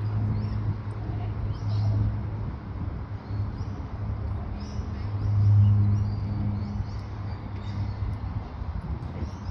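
Birds chirping repeatedly in short high notes over a steady low hum that swells and fades.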